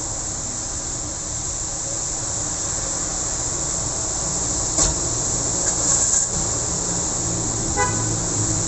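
Steady rain hiss over the low rumble of traffic on a wet road. A sharp click comes about five seconds in, and a brief high-pitched tone sounds near the end.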